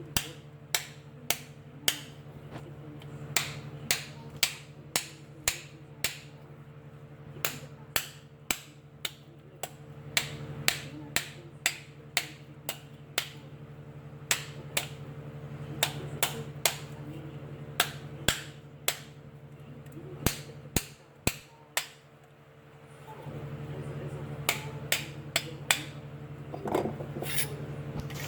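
Repeated sharp hammer taps on a bent engine part being straightened, about one to two blows a second with short pauses, over a steady low hum.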